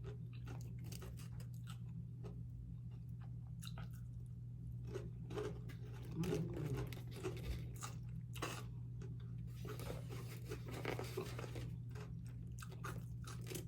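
Close-up chewing and biting of crisp food, with irregular crunches and crackles throughout, over a steady low hum.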